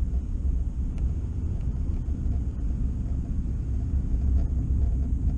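Car driving along, heard from inside the cabin: a steady low road-and-engine rumble.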